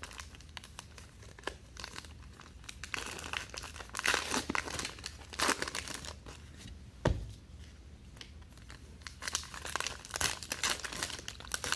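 Trading-card pack wrappers crinkling and tearing as packs are ripped open, with irregular sharp crackles and a few louder rips.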